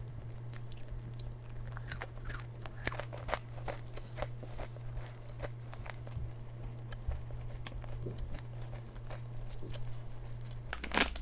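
Close-up chewing of crispy yakgwa, a Korean fried honey cookie: irregular crisp crunches and bites, with a low steady hum underneath.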